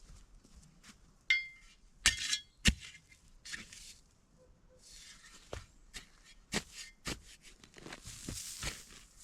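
A series of sharp clinks and knocks, as of hard objects being handled: a ringing clink about a second in, two loud knocks soon after, then lighter taps with some rustling toward the end.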